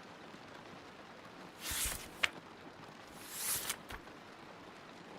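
A book's paper page being turned: two short rustles, each ending in a crisp snap of paper, over a steady patter of rain.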